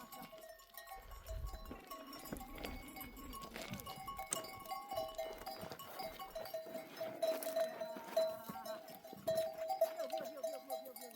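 A flock of sheep and goats bleating over and over, with their neck bells ringing steadily.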